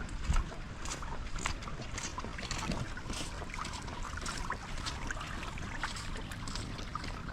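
Rain pattering, with scattered drops ticking, and footsteps on the wet street. A low thump about half a second in is the loudest sound.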